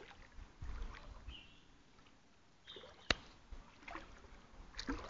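Faint water sounds from moving through floodwater, with a single sharp click about three seconds in.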